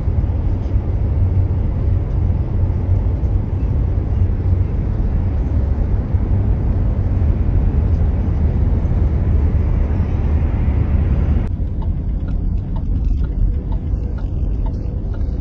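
Steady low rumble of a car driving on a snowy highway, heard from inside the cabin: road, tyre and engine noise with a hiss over it. About three-quarters of the way through, the hiss drops away suddenly while the rumble carries on.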